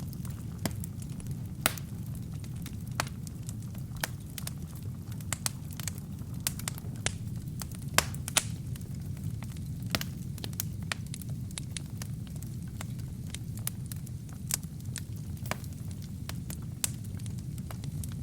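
Wood fire burning in a fireplace: a steady low rumble with irregular sharp crackles and pops, a few louder pops scattered through.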